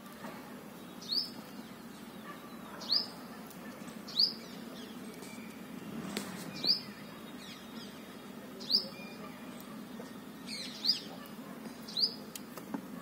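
A bird chirping over and over, one short sharp high call every second or two, about eight in all, with a faint steady low hum underneath.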